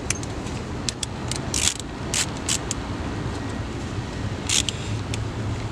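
Car engine running at a steady idle, with a few short hissing bursts over it.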